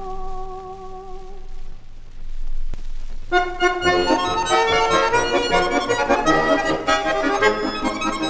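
Record playback of Russian folk-style music. A held final note with vibrato dies away about a second in, followed by a short quieter gap with a single click. About three seconds in, an accordion-led band starts a lively instrumental introduction.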